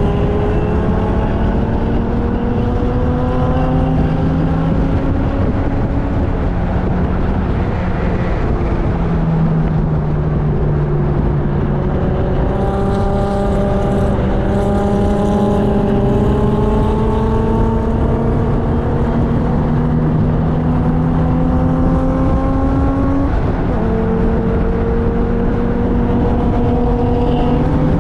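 Car engine at full throttle on a race track, heard from inside the car over heavy wind and road noise. Its pitch climbs slowly and drops suddenly once, about two-thirds of the way through, as at an upshift.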